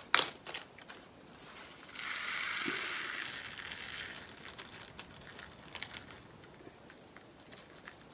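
Resin diamond painting drills being poured from a bag into a small storage pot: a sharp click near the start, then a rattling patter of small plastic pieces for about two seconds that tails off, with a few scattered clicks after.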